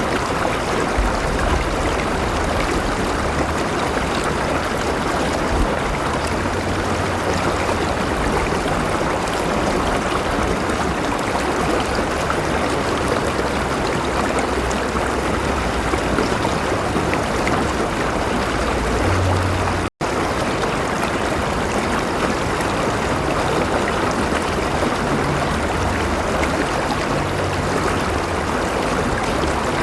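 A river flowing steadily, a continuous rush of water, broken by a split-second dropout about two-thirds of the way through.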